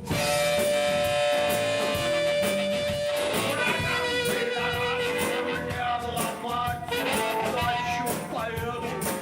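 Live rock-blues band music kicks in suddenly, with a long held lead note for about three seconds, then shorter melodic notes over guitar and drums.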